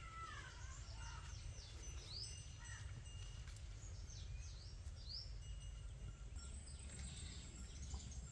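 Small birds chirping, short high calls repeated many times, over a steady low rumble.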